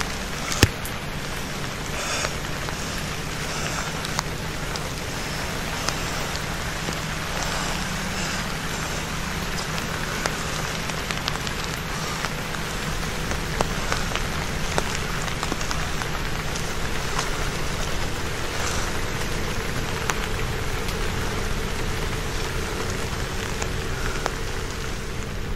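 Steady rain falling on leaves and undergrowth, with scattered sharper drop ticks, over a low steady hum.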